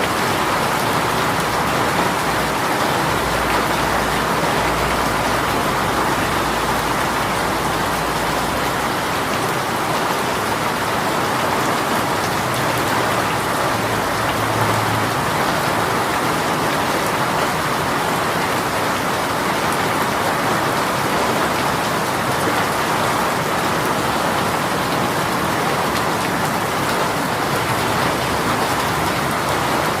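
A heavy rain shower pouring down steadily, a dense, even patter of raindrops on surfaces.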